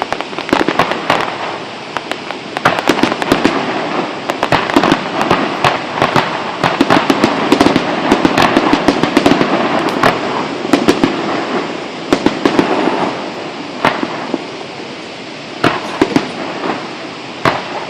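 Fireworks display going off: a dense, rapid string of pops and bangs with crackling, busiest in the middle and thinning out toward the end.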